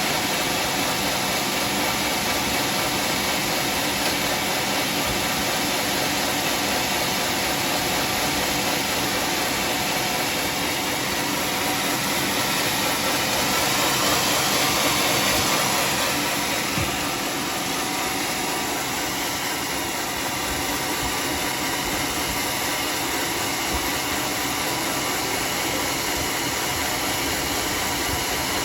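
Homemade sawmill running steadily as it saws a teak log: a continuous whir of motor and blade with a hissing cutting noise that grows louder about halfway through, then eases.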